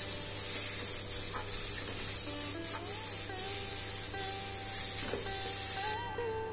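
Grated raw papaya sizzling in hot ghee in a metal kadai, stirred and scraped with a steel spoon; the sizzle cuts off about six seconds in. Faint instrumental background music comes in about two seconds in.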